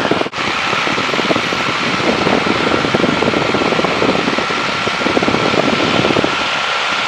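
de Havilland Tiger Moth's Gipsy Major engine and propeller running steadily at cruise power in flight, heard from the cockpit as a dense, even drone that briefly cuts out just after the start.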